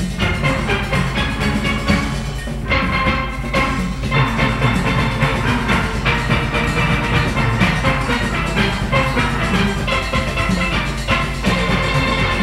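A large steel orchestra of about forty pan players playing a calypso arrangement together, with drums and percussion underneath.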